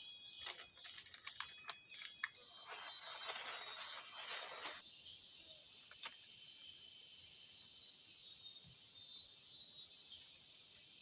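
Steady high-pitched chorus of forest insects. Over it, a run of short clicks in the first two seconds, a rustling noise about three to five seconds in, and one sharp click about six seconds in.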